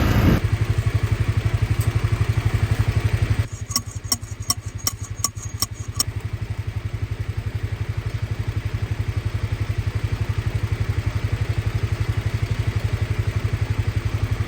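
An engine idling steadily, with a quick run of about eight ringing metal clangs between about four and six seconds in: a post driver pounding a fence post.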